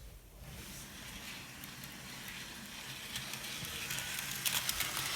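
HO-scale model train running along the track: a steady electric-motor hum and crackly rattle of wheels on the rails, growing gradually louder, with a few clicks near the end.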